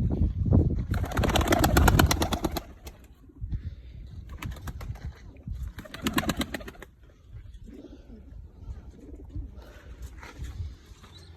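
Domestic pigeons cooing, louder in two bouts, about a second in and again near the middle.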